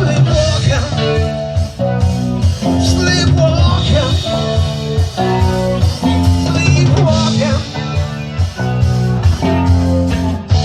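A live rock band plays an instrumental passage, guitar over a steady pulsing rhythm, with no singing.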